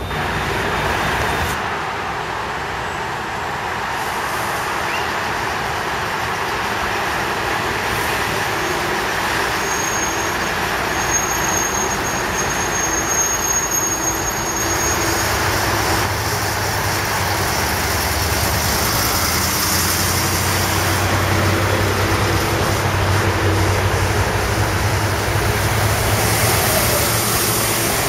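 Israel Railways passenger train rolling past on the platform line: a steady rumble of wheels on rails, with a thin high squeal about a third of the way through and a low steady hum joining in the second half.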